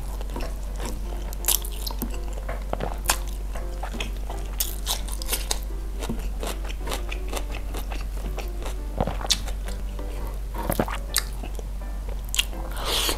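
Close-miked chewing and wet mouth sounds of grilled chicken and rice eaten by hand, with irregular small clicks and crunches. Soft background music plays underneath.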